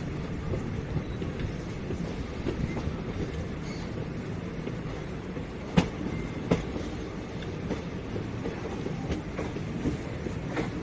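Passenger train rolling along the track, a steady low rumble with wheels clicking over the rail joints and two sharper clacks about six seconds in.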